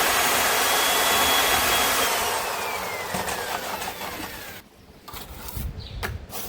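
A handheld power tool's electric motor running with a high whine, then released and spinning down, the whine falling in pitch before it stops; a few light knocks follow.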